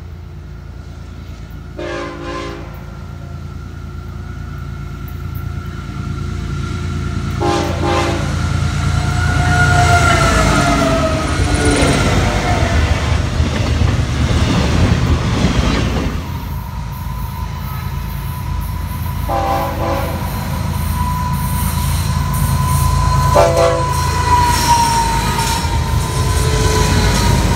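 Florida East Coast Railway freight train passing: short blasts of the locomotive horn, two in the first eight seconds and two more later, over the rising rumble and clatter of the cars rolling by. From about two-thirds of the way in, a steady high wheel squeal runs under the rumble.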